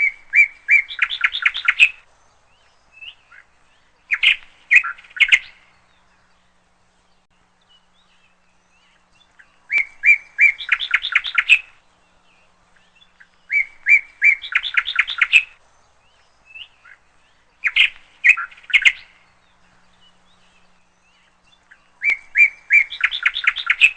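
Songbird singing: six short phrases of about two seconds each, every phrase a few even notes followed by a quick run of notes, with pauses of a few seconds between.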